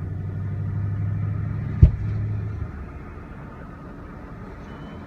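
A vehicle engine running with a steady low hum that swells, then fades away after about two and a half seconds, with one sharp knock near the two-second mark.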